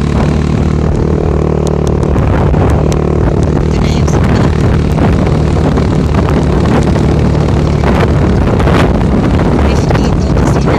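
A motor vehicle's engine running steadily under load while riding, with wind buffeting the microphone.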